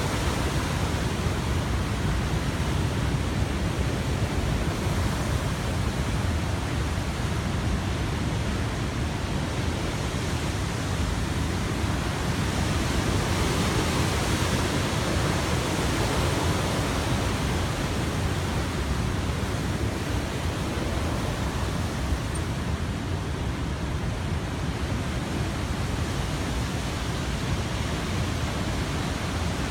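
Heavy ocean surf breaking: a steady wash of noise with a strong low rumble that swells a little about halfway through.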